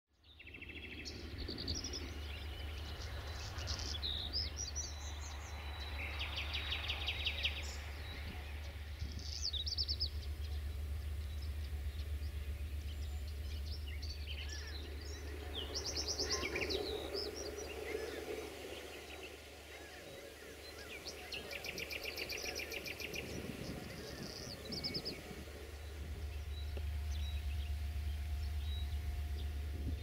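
Songbirds singing, many short chirps and rapid trills, over a steady low rumble.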